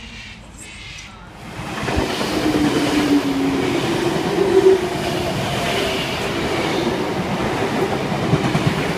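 A V-set double-deck intercity electric train running along the platform. Its wheels and motors come up loud about a second and a half in, with a short steady hum in the middle, then a continuous rumble.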